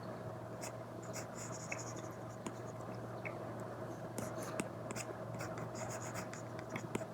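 Stylus tip on an iPad with a paper-like screen protector: quick taps and short scratchy strokes of drawing, over a faint steady hum.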